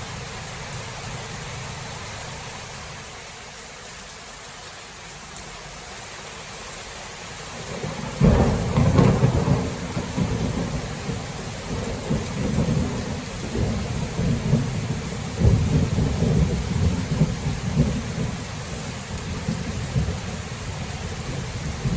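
Steady rain hissing, then a loud crack of thunder about eight seconds in that rolls on as a long rumble, surging again and again.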